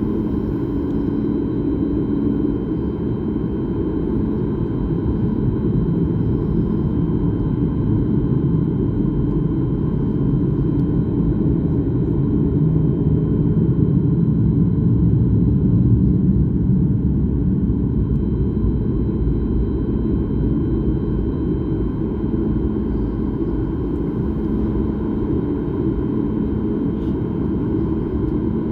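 Steady low rumble of a jet airliner's cabin noise, heard from inside the cabin, with a few faint steady whines above it. It swells slightly in the middle.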